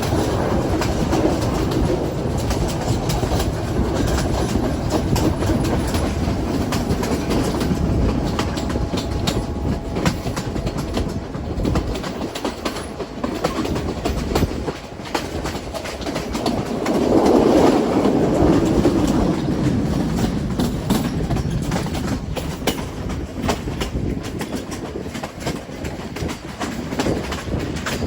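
Train running along the track, heard from aboard: a steady rumble with the clickety-clack of wheels over rail joints, swelling louder for a couple of seconds about two-thirds of the way through.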